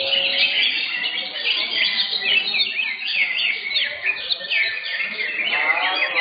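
Several caged green leafbirds (cucak hijau) singing at once: a dense, overlapping run of rapid high chirps and short whistles. Near the end a lower, wavering pitched call joins in.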